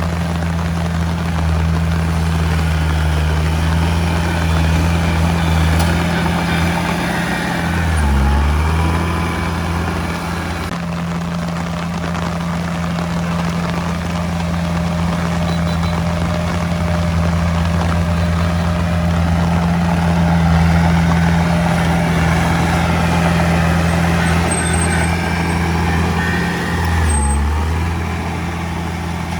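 Diesel engine of heavy earthmoving machinery running steadily under work, its low drone dipping and shifting briefly twice as the load or throttle changes.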